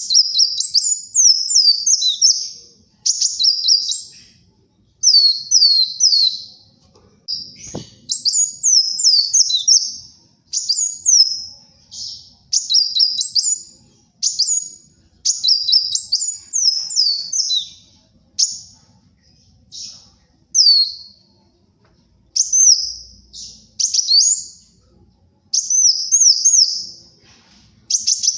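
Kolibri wulung sunbird singing vigorously: rapid, high-pitched chirping phrases of quick sweeping notes, each about a second long, repeated with short pauses. A brief low thump sounds once about eight seconds in.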